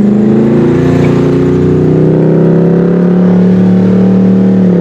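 Straight-piped exhaust of a Dodge Scat Pack's 392 HEMI V8 (mid muffler and resonator deleted, 5-inch Carven tips) pulling off slowly under light throttle. The loud engine note rises gently, then drops near the end as the car slows.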